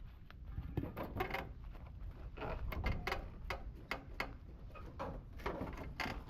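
Irregular knocks and clatter of workshop hand work on a bus body, roughly two a second, over a low rumble.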